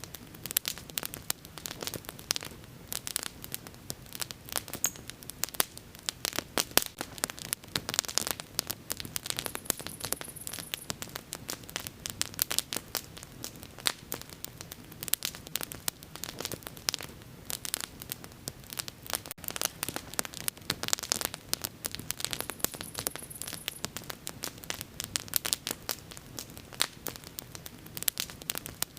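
Wood fire crackling and popping steadily, dense irregular snaps over a soft hiss, with two brief high hisses about ten seconds in and again near twenty-three seconds.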